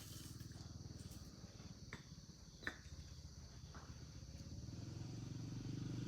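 Crickets chirring steadily, over a low rumble that grows louder toward the end, with a couple of light clicks.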